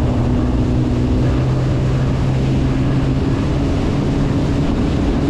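Jet ski engine running steadily under way, with water and wind noise; the engine hum shifts a little partway through.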